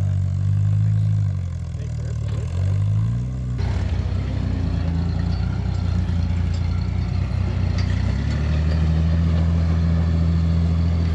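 An off-road 4x4's engine running at low revs, its pitch dipping and rising briefly, with a rougher, noisier layer joining suddenly about a third of the way in as it carries on at a steady note.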